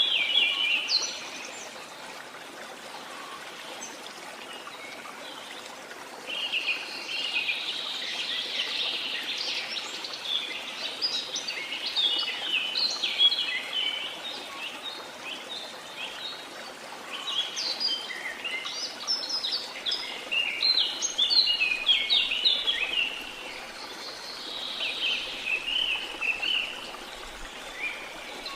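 Birds singing in bouts of rapid, overlapping chirps with short pauses between, over a steady hiss of running water.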